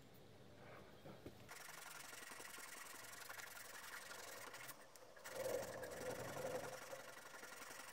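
Abrasive scrubbing on rusty metal parts of a vintage hand-crank grinder, a steady scratchy rubbing that starts about a second and a half in, pauses briefly near the middle, then comes back louder.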